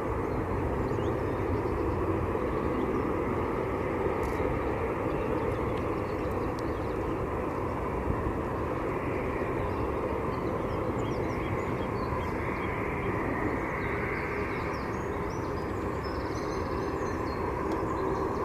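Steady airplane noise: a continuous, even rumble and hiss with no change in pitch.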